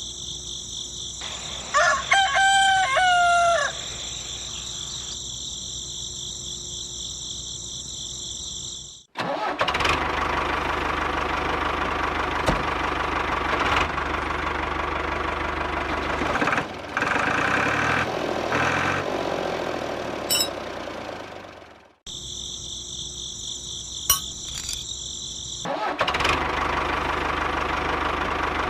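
A rooster crows once about two seconds in, over a steady high whine. Then an engine starts and runs with a noisy, rattling sound, cuts off, and starts again near the end.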